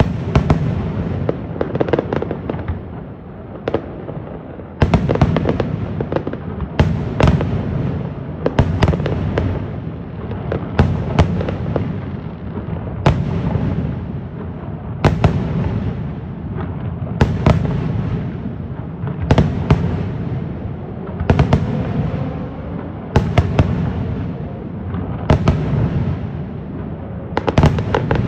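Aerial fireworks display: shells burst in sharp cracks about every two seconds, with continuous rumbling and crackling between them. A short lull ends in a loud burst about five seconds in.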